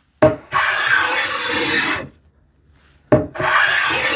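Small hand plane cutting a light chamfer on the edge of a solid cherry panel: two long strokes, each starting with a sharp click as the blade bites and then a steady shaving hiss, with a pause between.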